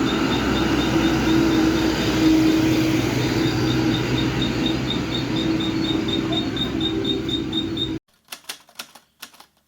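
Heavy truck's diesel engine running steadily, with a fast regular ticking over it, about four ticks a second. The sound cuts off suddenly about eight seconds in, leaving a few short clicks.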